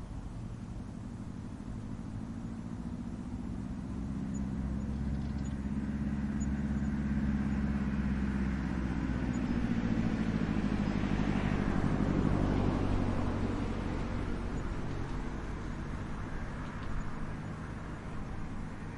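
A motor vehicle passing by: a low engine hum with a rushing noise that builds over several seconds, peaks a little past midway, then fades away.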